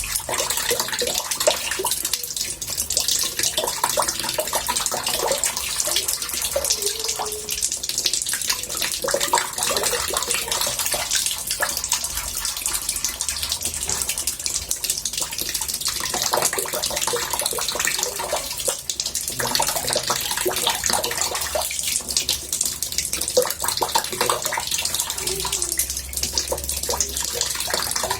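Water from a tap pouring into a bathtub, a steady splashing and gurgling.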